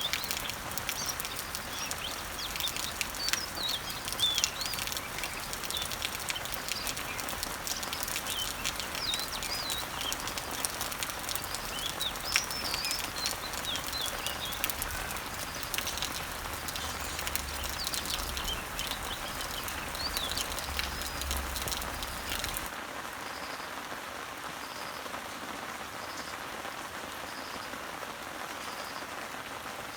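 Rain falling on garden leaves and trees, a steady patter with individual drips, while small birds chirp and sing in the background. About three-quarters of the way through, the sound changes abruptly to quieter, steadier rain without birdsong, with only a faint high note repeating at regular intervals.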